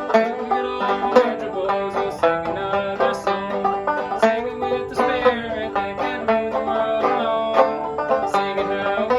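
1913 Fairbanks/Vega Tubaphone banjo playing a quick old-time tune, dense plucked notes, with longer held notes sounding beneath it.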